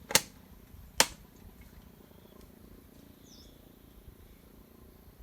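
Two sharp knocks, about a second apart, right at the start. Then a low steady background with a faint high chirp about three seconds in.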